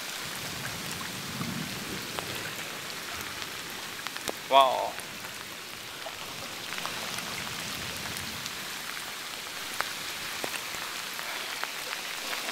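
Heavy rain pouring steadily onto a flooded street, an even hiss with scattered sharp taps of drops striking close by.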